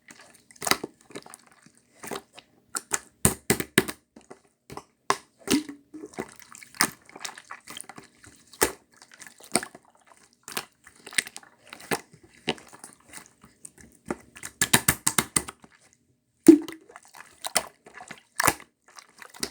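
Hands kneading and stretching slime, making irregular sticky pops and squishes. There are quick runs of popping about three seconds in and again around fifteen seconds.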